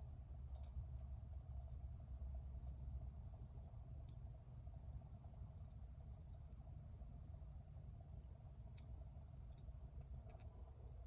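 Faint, steady, high-pitched insect chirring over a low background rumble, with a few light clicks.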